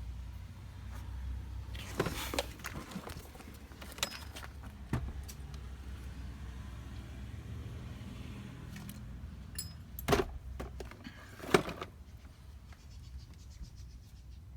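Scattered sharp clicks and knocks with light rustling, the loudest knocks about ten and eleven and a half seconds in, over a low rumble that fades out about two-thirds of the way through.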